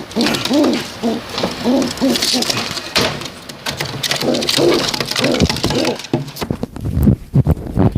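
Domestic pigeons cooing over and over, each coo swelling up and falling away in pitch. In the last couple of seconds several low thumps break in.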